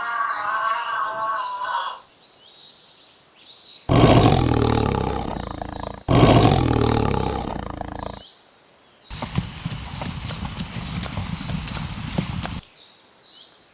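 A series of animal calls: a high, wavering call to about two seconds in, then two long, loud, low calls of about two seconds each, one right after the other, then a noisier stretch with clicks in it near the end.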